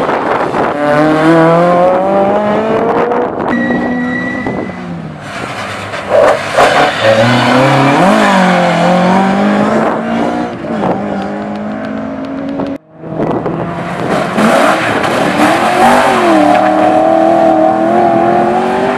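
Rally car engines accelerating hard, the note rising and dropping back through gear changes. The sound cuts out briefly about thirteen seconds in, then another car revs up.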